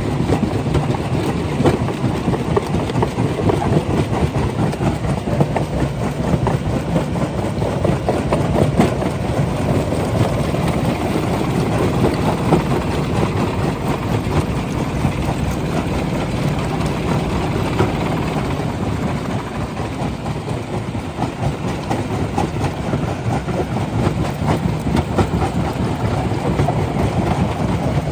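Rock crusher running, a steady loud rumble with dense clattering of stone.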